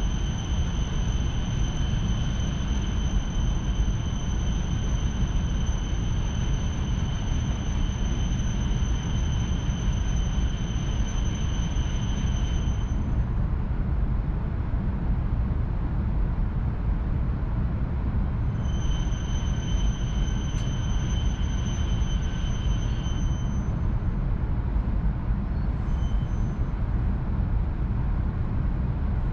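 Cabin noise inside a Tohoku Shinkansen train slowing to a stop at a station platform: a steady low rumble, with a thin, high, steady tone that cuts out about 13 seconds in, returns for a few seconds around 19 seconds, and sounds once more briefly near the end.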